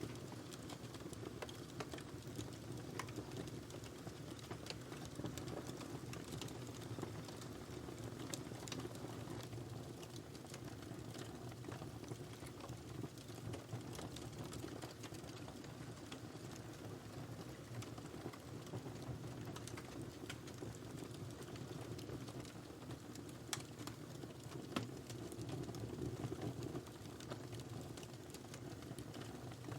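Wood fire burning in a fireplace: a steady low rush of flame with many small irregular crackles and pops, one sharper pop about 25 seconds in.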